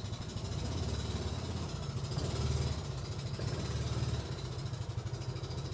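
A small vehicle engine idling steadily with a low, pulsing note that grows a little louder in the middle.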